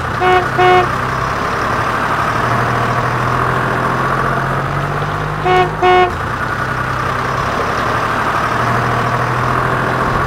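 A truck engine running steadily, most likely a sound effect laid under the moving toy trucks. A horn gives a quick double toot near the start and again about halfway.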